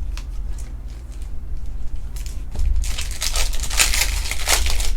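Foil trading-card pack wrapper crinkling as it is torn open and handled, with a few light clicks first and then a dense stretch of crackling from about halfway through.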